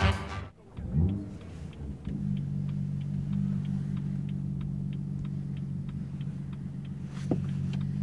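BMW M2's 3.0-litre turbocharged inline-six starting about a second in with a short rising swell, then settling into a quiet, steady idle. The hazard-light indicator ticks regularly over the idle, and a brief knock comes near the end.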